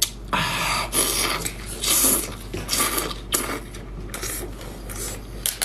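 Close-miked crunching of seafood being eaten: an irregular series of crackly crunches, denser in the first three seconds.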